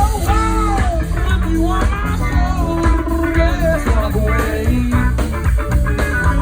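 Live rock band playing, with guitar to the fore over a steady bass and drum groove and melodic lines that bend and slide in pitch.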